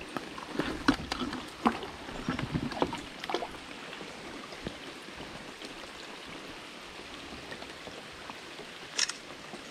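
Handling noises in a kayak: scattered light knocks and clicks for the first few seconds, then steady faint water hiss, with one sharper knock near the end.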